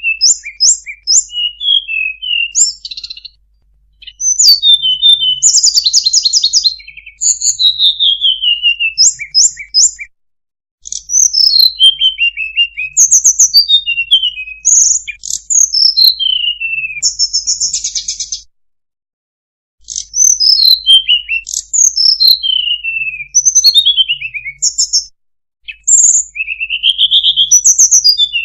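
Song of a sulingan (tledekan), a blue flycatcher, played as a lure call: bright high whistled phrases that mostly slide downward, mixed with short rapid trills. It comes in runs broken by brief pauses about ten seconds in, about two-thirds of the way through, and again near the end.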